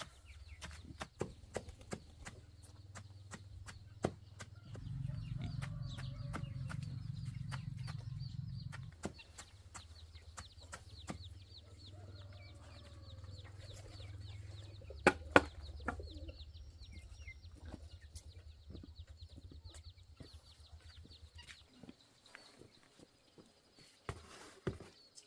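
Chickens clucking, with many scattered sharp clicks and knocks and a low hum underneath that grows louder for a few seconds about five seconds in.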